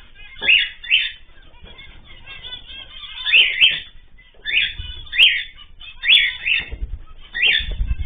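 Caged ornamental birds calling: loud, short, sharp calls, mostly in quick pairs, repeated several times.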